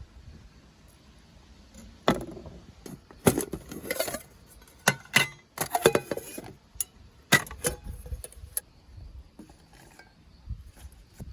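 Irregular clinking and clattering of cooking gear being handled: a run of sharp knocks and rattles from about two seconds in, ending near nine seconds.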